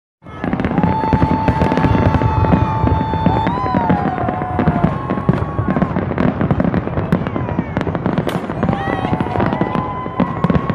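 Fireworks going off: a dense, continuous crackle of rapid pops and bangs. A held whistling tone bends and slides down about three and a half seconds in, and another whistle glides near nine seconds.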